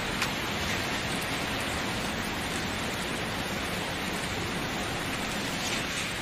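Steady rain: an even hiss of falling rain with a few single drops standing out here and there.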